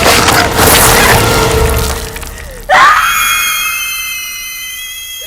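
Film soundtrack of a death scene: a chaotic din with screaming, then a sudden loud hit about two and a half seconds in, followed by a steady high-pitched ringing that slowly fades.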